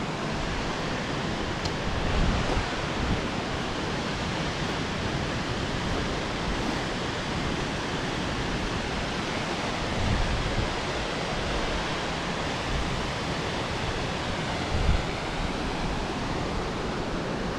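Steady rushing wind noise on the microphone, with gusty low buffeting swelling now and then, such as a camera picks up on a moving motorcycle.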